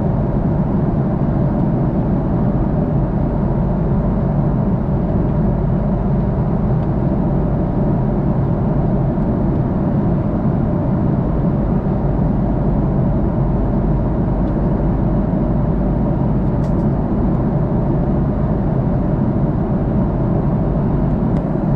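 Steady cabin roar of an Airbus A330-300 airliner in flight: engine and airflow noise, even and unchanging, with a few faint clicks near the end.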